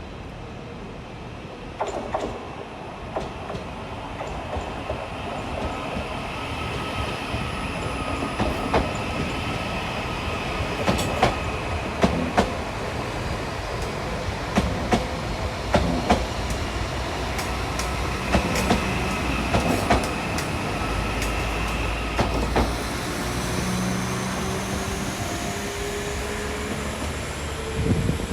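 Train moving through the station: wheels clicking over rail joints at irregular intervals over a steady low rumble, with a high whine through the middle. A rising whine comes in near the end.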